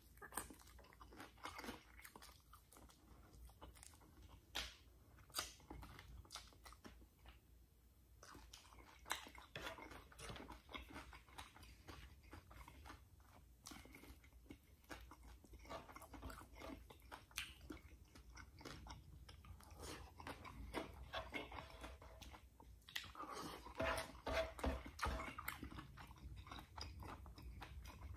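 Close-miked chewing and eating sounds of a man eating mussels, rice and bok choy by hand, with many irregular small clicks, busier and louder about three quarters of the way through.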